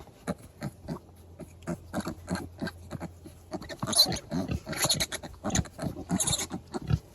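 Pigs grunting in many short, separate grunts at an uneven pace, with a few louder, harsher bursts between about four and six and a half seconds in.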